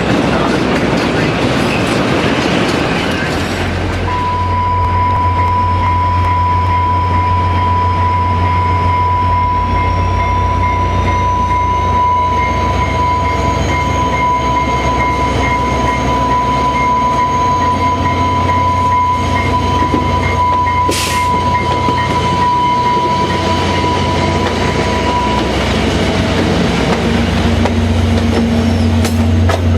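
Passing train noise, then about four seconds in the steady low drone of a VIA Rail passenger train's diesel locomotive takes over, with a long, steady high tone over it.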